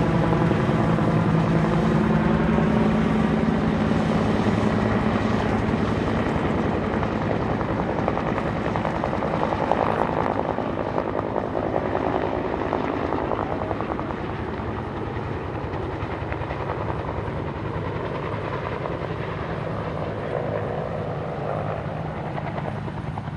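Firefighting helicopter with a steady, fast rotor chop, loud at first and easing off after about fourteen seconds.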